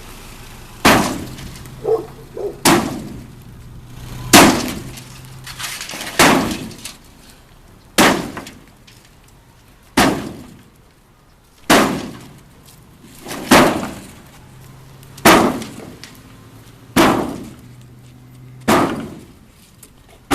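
A steady series of sharp crashing impacts, about one every two seconds. Each rings briefly before fading.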